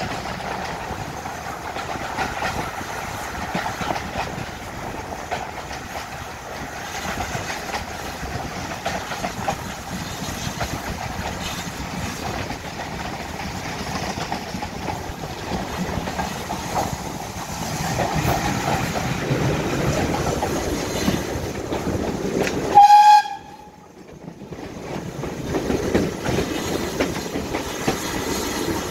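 Heritage passenger train running, its wheels rumbling and clicking over the rails. About four-fifths of the way through, the locomotive sounds one short, loud blast.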